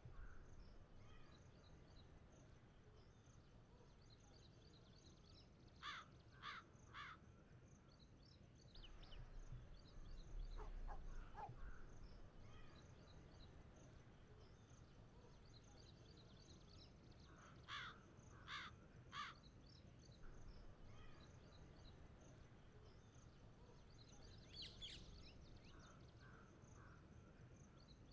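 Faint outdoor ambience: a crow caws three times about six seconds in and three times again near eighteen seconds, with a few higher bird chirps near the end. Over a low background hiss, insects chirp steadily and high.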